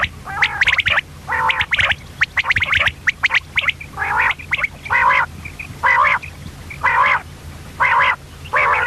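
Female common quail calling: a quick run of rattling notes in the first half, then harsh calls repeated about once a second, over a faint steady hum.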